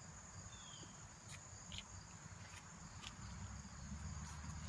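Faint, steady high-pitched trilling of crickets, with a few short ticks scattered through.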